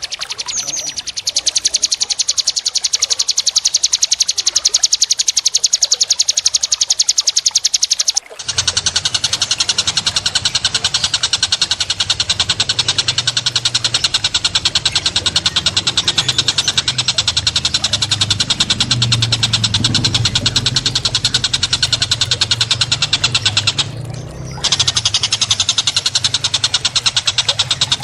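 A small songbird's fast, rattling high-pitched trill, repeated in long unbroken runs. It breaks off about eight seconds in, resumes with a low steady rumble underneath, and pauses briefly near the end.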